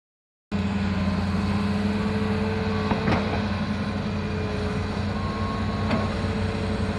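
Excavator's diesel engine running steadily, with two short knocks, one about three seconds in and another near the end.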